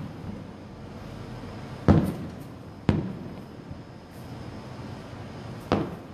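Aerial fireworks going off: three sharp booms, about two, three and almost six seconds in, each trailing off in an echo.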